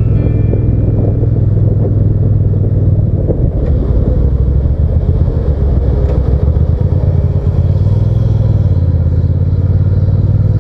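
Hyosung GT650 V-twin engine running steadily under way, with road and wind noise; the engine note wavers for a few seconds in the middle, then steadies.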